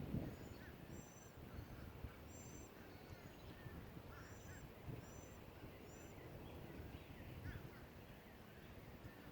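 Faint bird calls: many short, high chirps repeated every half second or so, with softer, lower calls among them, over a low background rumble.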